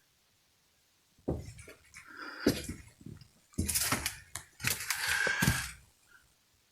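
A run of irregular knocks, bangs and clattering in a bare wooden room, with a short squeak or creak about five seconds in.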